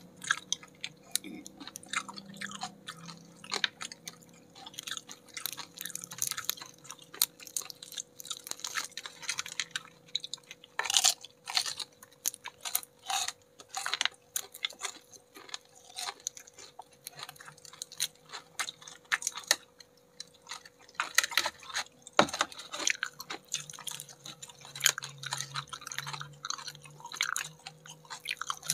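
Close-up chewing and crunching of crispy battered fried chicken wings, many sharp irregular crunches of the coating between softer chewing, over a faint steady hum.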